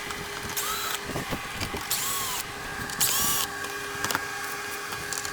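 Power drill backing out the screws of a rooftop air conditioner's cover in three short runs, each spinning up and slowing down, over a steady low hum.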